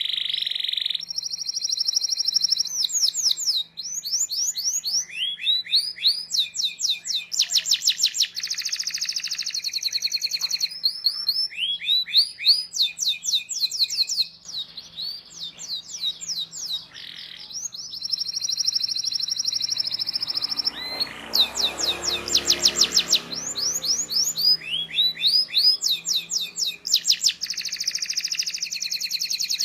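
Domestic canary singing a long continuous song, switching every second or two between fast runs of repeated chirping notes and held rolling trills.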